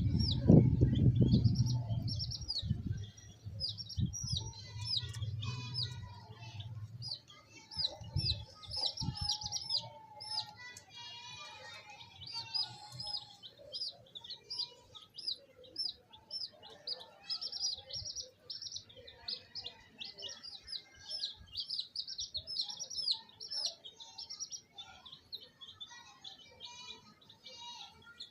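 A group of baby chicks peeping continuously, many short high chirps overlapping one another. A low rumble with thumps sits under them for the first few seconds, and a few knocks come about eight seconds in.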